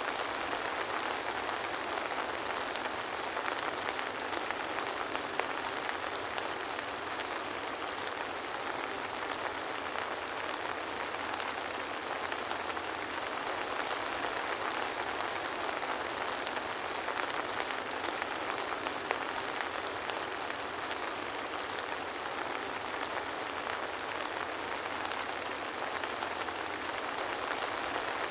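Steady soft rain falling, an even hiss with faint scattered drop ticks and no thunder.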